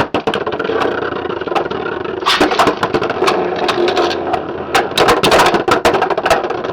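Two Beyblade X spinning tops whirring in a plastic stadium, with many sharp clacks as they hit each other, thickest about two seconds in and again around five to six seconds.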